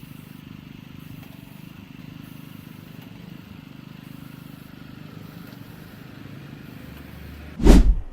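An engine running steadily with a low, even hum, then a single loud thump near the end.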